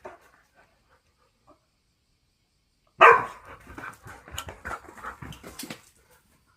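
Two dogs play-fighting: a sudden loud bark about three seconds in, then about three seconds of scuffling and short rough play noises.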